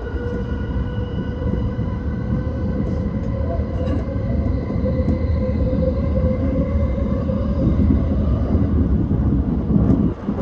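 E235-1000 series electric train running at speed: a steady, near-constant whine from its traction motors over the rumble of wheels on track.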